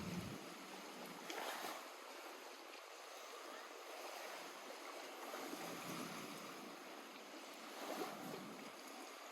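Small lake waves lapping at the shore: a soft, steady wash of water, with slightly louder laps about a second and a half in and again near the end.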